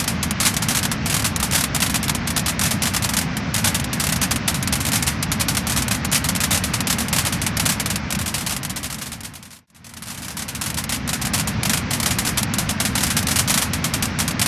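Wood fire crackling and popping, a dense stream of rapid crackles. About two-thirds of the way through it fades out briefly and swells back in.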